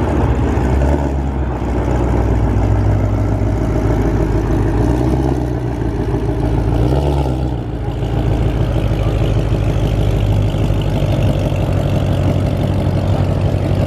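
A car engine running at low speed close by, with a short rise and fall in engine pitch about seven seconds in.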